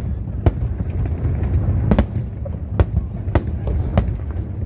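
Aerial fireworks bursting: about six sharp bangs at irregular intervals of half a second to a second, over a steady low rumble.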